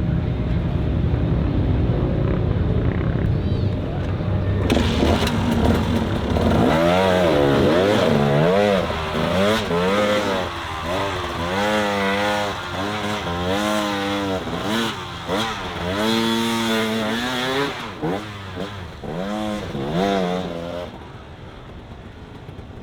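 An off-road vehicle's engine running with a low rumble, then revved hard up and down over and over, about once a second, before easing off near the end.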